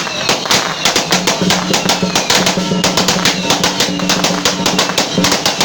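Temple procession percussion: drums and cymbals beating continuously, mixed with a dense, irregular crackle of firecrackers.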